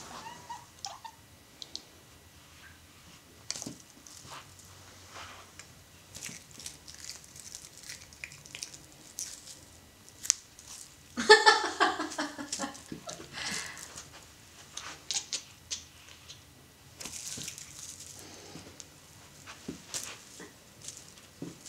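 Siamese kitten playing with a toy: scattered small clicks, taps and chewing sounds, with one loud pitched vocal noise from the kitten lasting about a second around the middle.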